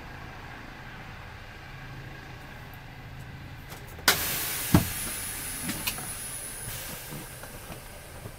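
Low steady hum of a stopped car, engine idling. About four seconds in, a sudden loud hiss breaks in with a sharp click, a knock follows a moment later, and the hiss fades over the next few seconds.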